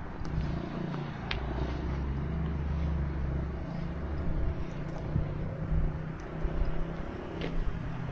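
A car engine running nearby, a steady low hum that is strongest in the first half, with a couple of sharp clicks.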